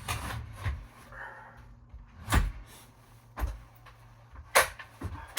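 Wooden ladder being handled: a series of about five knocks and clunks, the sharpest about four and a half seconds in.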